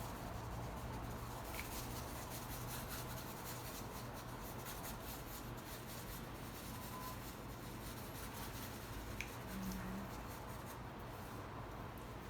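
Faint paintbrush strokes rubbing and dabbing on the painting surface, as paint is blended for a blurred look, over a steady low hum of room noise.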